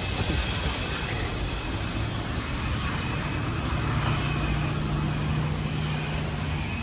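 A car engine running steadily under a constant rush of noise, with a low hum that grows steadier about four seconds in.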